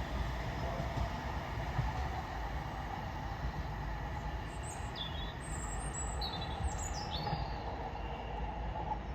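Manchester Metrolink tram running on the line, a steady rumble. Birds chirp a few times over it in the second half.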